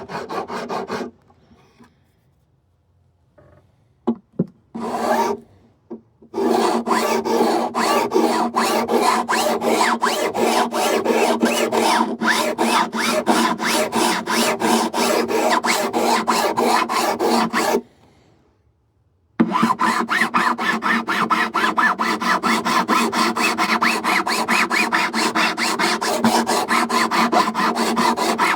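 Rapid back-and-forth abrasive strokes over the frets of a Martin D-16 acoustic guitar, as in fret leveling and dressing, at about four strokes a second. The rubbing stops after a second, returns with a few short scrapes, runs steadily, then pauses briefly before starting again.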